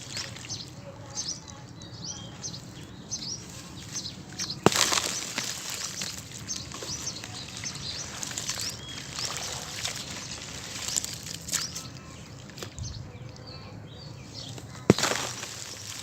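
Dry sand-cement chunks being smashed: two sharp impacts, one about five seconds in and one near the end, each followed by crumbling and scattering debris.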